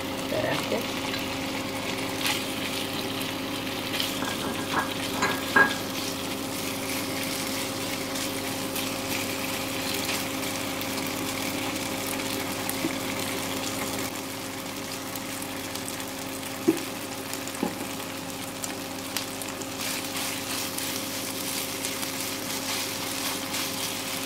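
Yogurt-marinated chicken pieces sizzling steadily as they fry in hot oil in a non-stick pan, with a slotted spatula now and then tapping and scraping against the pan as the pieces are stirred.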